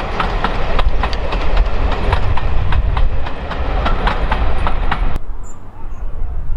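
Train wheels clicking over rail joints as a train rolls past, over a heavy low rumble. The clicking stops suddenly about five seconds in, leaving a quieter rumble.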